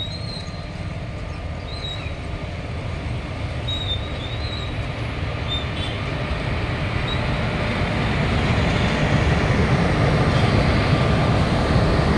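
Electric locomotives rolling past on the rails, a steady rumble of wheels and running gear that grows louder as they draw near and pass close by.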